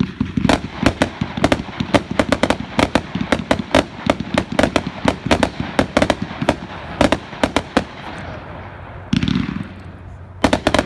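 World Class Fireworks' American Trucker 500-gram consumer cake firing: a dense run of sharp bangs and crackling breaks, several a second, which thins out after about eight seconds and ends with a last few bangs.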